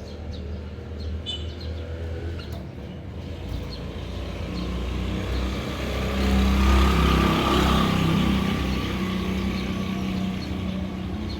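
A motor vehicle passing close by: a low engine hum that builds to its loudest about two-thirds of the way through, then fades slowly. A few short bird chirps sound faintly in the first few seconds.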